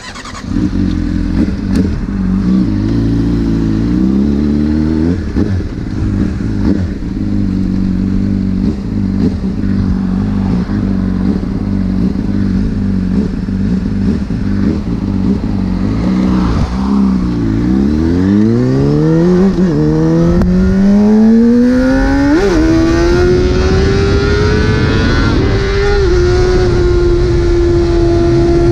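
2009 Honda CBR600RR inline-four through a full titanium Arrow exhaust, idling steadily with a brief blip of the throttle a few seconds in. About seventeen seconds in it revs up and pulls away, the pitch climbing through the gears with two quick upshifts about five and eight seconds later. It then holds a steady cruising note.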